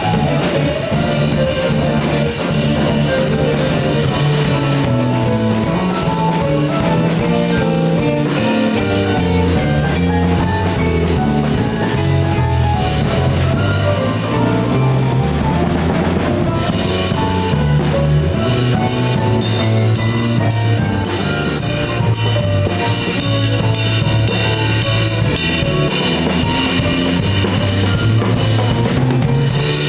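Instrumental band of piano, saxophone, guitar, electric bass and drum kit playing live, with a prominent bass line and steady drumming throughout.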